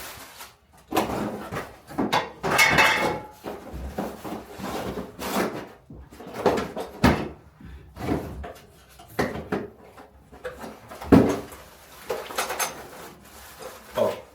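Irregular clanks, clicks and rustling from handling a light fixture's metal mounting bracket and hardware while fitting it to the ceiling box.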